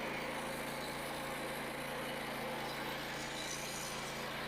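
Frontier OS27 bandsaw mill's small gasoline engine running steadily, a constant low hum with no change in pitch.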